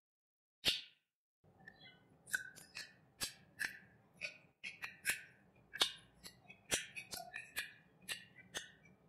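Close-miked wet eating sounds of chicken curry and rice: irregular sharp lip smacks and chewing clicks, about two a second, starting after a brief silence.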